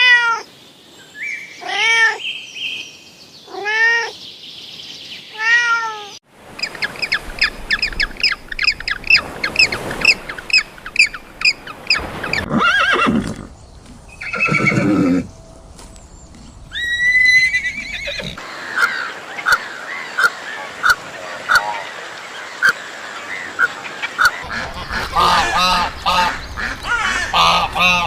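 A run of different animal calls: four meows, evenly spaced about two seconds apart, in the first six seconds, then a shift to rapid bird chirping and twittering that carries on in several changing bursts.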